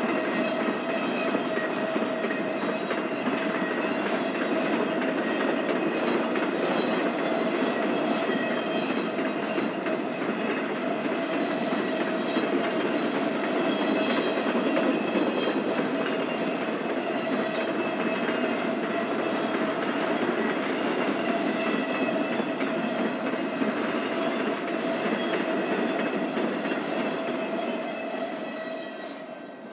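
Freight cars of a BNSF intermodal stack train rolling past, wheels clacking over the rail joints with a steady tone over the rumble. The sound fades away over the last couple of seconds.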